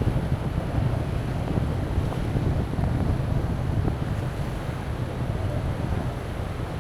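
Strong wind buffeting the microphone with a heavy low rumble, over the wash of sea waves on the beach.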